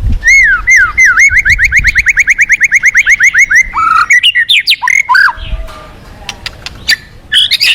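White-rumped shama singing: a loud, fast run of about two dozen repeated whistled notes over some three seconds, then a few varied whistles, and a brief burst of notes near the end.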